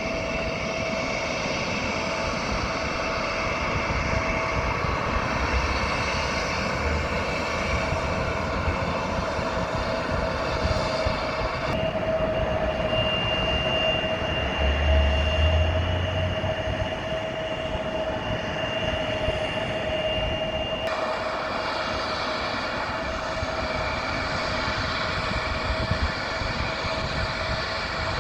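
Jet airliner engines running: a steady whine over a broad rush of engine noise, with a higher whine joining about a third of the way in and dropping out abruptly later.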